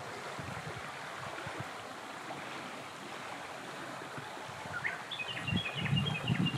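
Steady rush of flowing stream water. Near the end a bird starts a quick series of short high chirps, and low wind buffeting on the microphone comes in with it.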